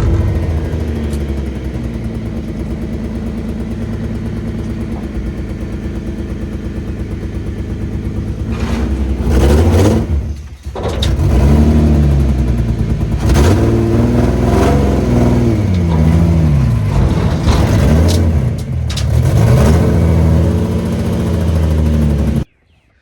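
Nissan 350Z's VQ V6 with a full exhaust idling steadily, then from about eight seconds in revved up and down over and over, its pitch rising and falling, before cutting off suddenly near the end.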